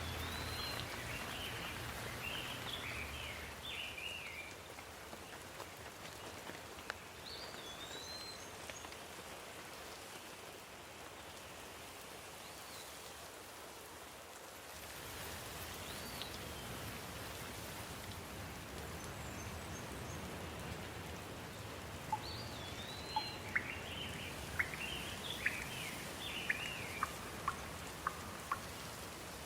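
Steady rain falling, with a bird singing a short chirping phrase now and then through it. In the last few seconds there is a quick series of sharp ticks, like drops striking a hard surface.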